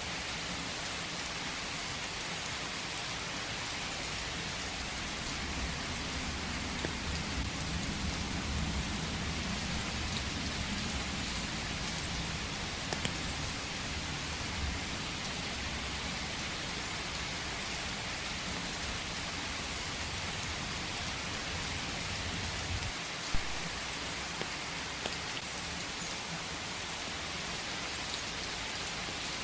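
Steady rain falling in a forest: an even hiss with scattered drop ticks. A low rumble sits underneath through the middle and cuts off abruptly about 23 seconds in, followed by one sharp tick.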